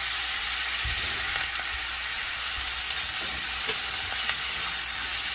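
Cubed onion and potato sizzling steadily in coconut oil in a nonstick pan, sautéing over a gas flame. A wooden spatula stirs them in the second half, with a few light knocks against the pan.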